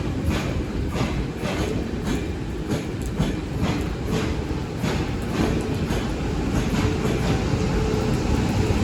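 Taiwan Railway train rolling along the track: a steady low rumble with a run of sharp wheel clacks over the rail joints, a few each second, that thin out near the end.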